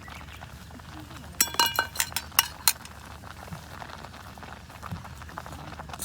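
Metal cookware or utensils clinking together: a quick cluster of about six sharp clinks with a brief metallic ring, starting a little over a second in.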